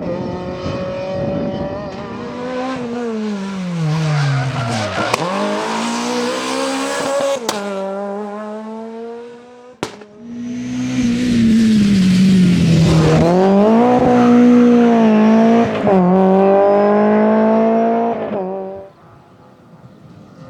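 Rally car engines at full throttle, the pitch dropping and climbing again with braking, gear changes and acceleration, with some tyre squeal. An abrupt break about halfway through brings in a second car, whose sound falls away sharply near the end.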